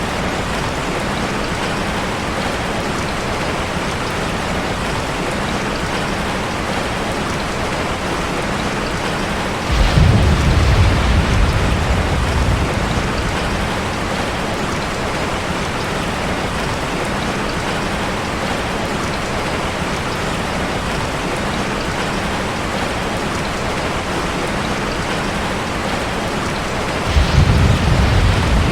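Steady, even rush of cascading water, with a deep low rumble that swells suddenly about ten seconds in and fades over a few seconds, and another that starts near the end.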